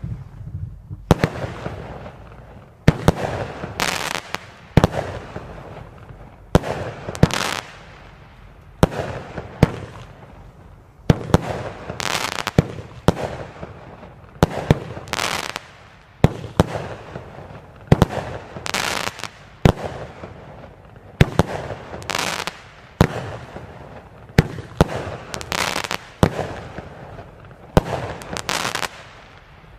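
Vulcan 'Soul Crushers' 16-shot firework cake firing shot after shot. Each shot is a sharp bang, about one every second or so, followed by a fading crackle.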